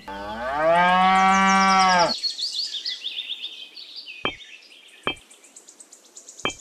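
A cow mooing once, one long call of about two seconds that rises in pitch and then holds. High bird chirps follow, with two sharp clicks a second apart near the end, as miniature bricks are set down.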